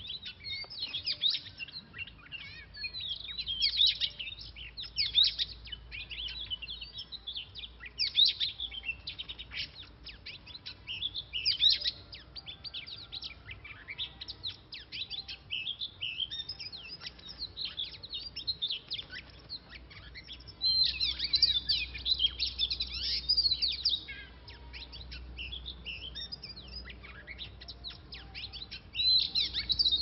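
Oriental magpie-robin calling in repeated bursts of rapid, sharp chirps, with the loudest, densest bursts from about 21 to 24 seconds in and again near the end.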